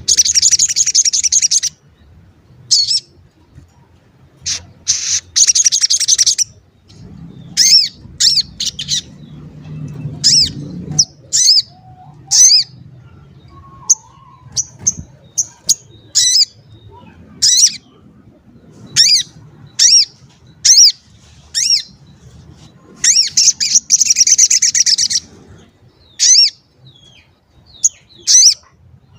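Sogon bird calling: repeated sharp "cuit" chirps at uneven intervals, broken by three longer, rapid chattering bursts at the start, about five seconds in and near the end. This is a lure recording meant to set off a sogon bird's answering call.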